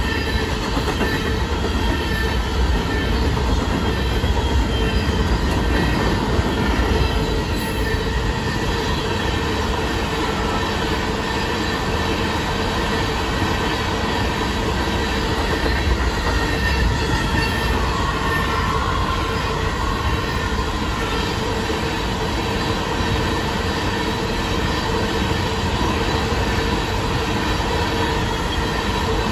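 BNSF freight train passing at speed, its mixed freight cars (covered hoppers, tank cars, boxcars) rolling by with a steady, continuous noise of wheels on rail.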